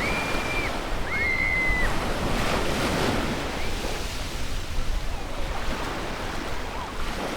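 Sea waves washing onto a beach, with wind buffeting the microphone. In the first two seconds, two short, high whistle-like tones, each gliding up, holding and dropping away.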